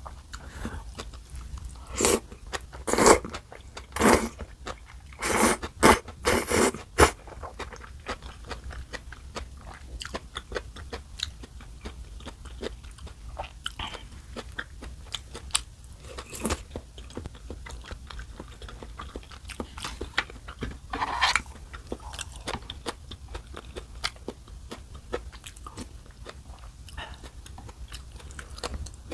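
Close-miked eating sounds from a person eating red pepper paste kalguksu noodles and side dishes: steady small chewing clicks, with a run of several loud short bursts in the first few seconds and two more later on.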